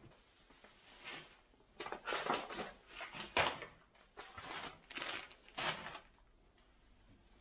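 A quick run of about a dozen short rustling, scraping handling sounds over a few seconds, as objects are moved and set about by hand.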